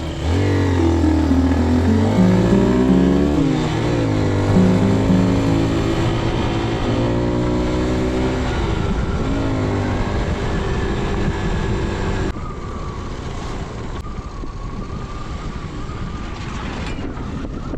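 Motorcycle engine accelerating through the gears, its pitch climbing and dropping back at each shift. About twelve seconds in it suddenly gets quieter and runs more steadily.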